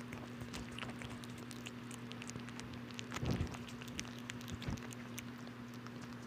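Kitten eating a snack: a run of small, quick chewing and licking clicks, with a louder thump a little over three seconds in.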